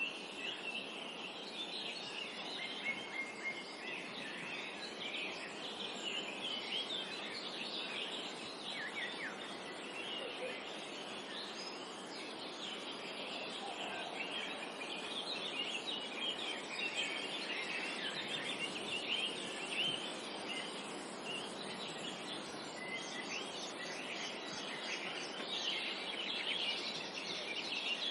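Many songbirds chirping and singing at once, a dense chorus of quick high notes and trills, over a steady soft hiss of forest background.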